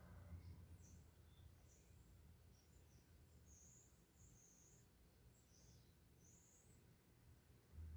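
Near silence: a faint low rumble with scattered short, high bird chirps.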